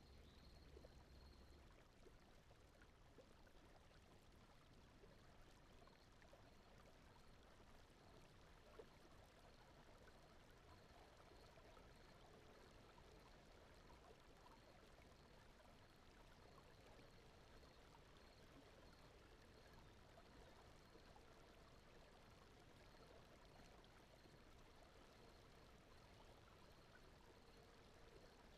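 Very faint, steady rushing noise like softly flowing water: a sleep soundtrack's background noise bed, with a faint high pulsing note running through it.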